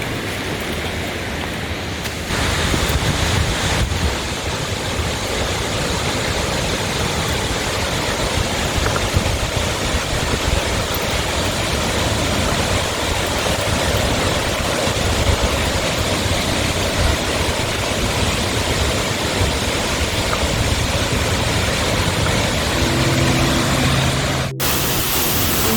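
Waterfall: the steady rush of falling water, which grows louder about two seconds in.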